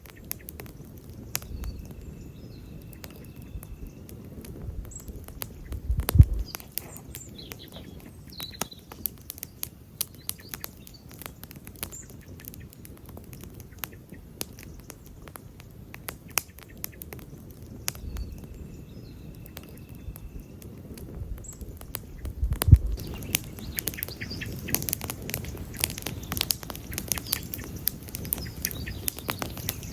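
Wood campfire crackling steadily, with a dense run of small snaps and two louder pops, about six seconds in and near the three-quarter mark.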